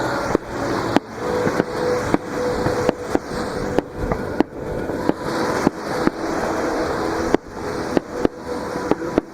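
Aerial fireworks going off in quick succession, sharp bangs about twice a second, over the steady wash of surf breaking at the shoreline. Faint music comes in the background.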